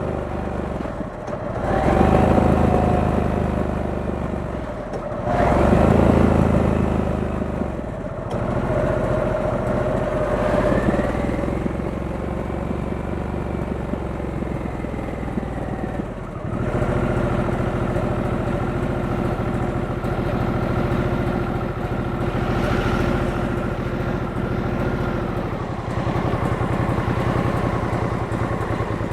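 Harley-Davidson Sportster S's 1250 cc V-twin engine, heard from the rider, accelerating up through the gears: the engine note rises, cuts out briefly at each of several gear changes, then climbs again. In the second half it holds a steady cruising note.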